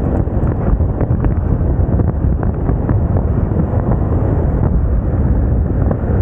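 Wind buffeting the microphone on a moving Moda Moca 110 scooter, a loud, steady rumble over the scooter's running and road noise.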